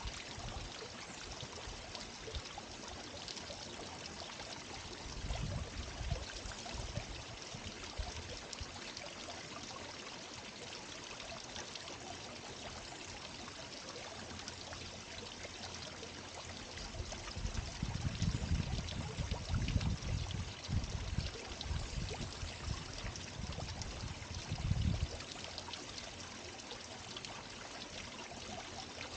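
Garden water fountain splashing and pouring steadily. Spells of low rumble come and go, the longest from about 18 to 25 seconds in.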